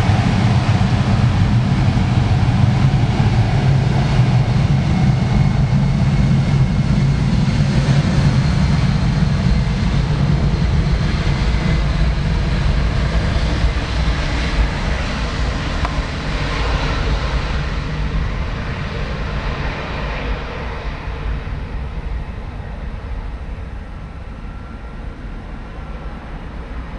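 Jet airliner engine noise, loud at first and then fading steadily over the last third as the aircraft moves away.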